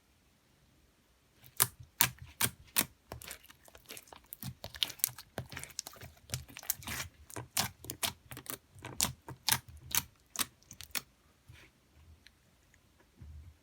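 Slime being squished and poked by hand, giving a quick run of sharp clicks and pops, several a second. It starts about a second and a half in and thins out near the end.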